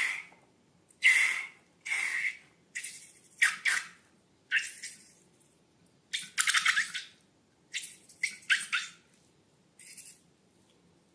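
Slime being squished and worked by hand, about a dozen short, irregular wet crackling squelches.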